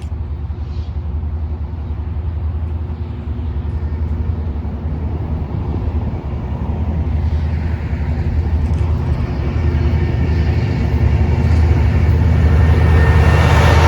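Diesel locomotive rumble growing steadily louder as a train approaches, with wheel and rail noise building near the end.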